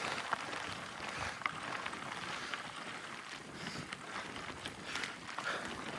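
Mountain bike climbing slowly over a rocky trail: tyres rolling and grinding over stones, with a few small clicks and knocks, and wind on the microphone.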